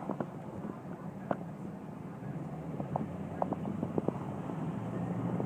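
Steady low drone of a car's engine and tyres heard from inside the cabin while driving, with scattered short sharp ticks, several of them close together about three to four seconds in.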